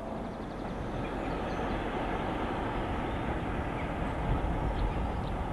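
Distant diesel-hauled passenger train running: a steady low rumble that grows a little louder near the end.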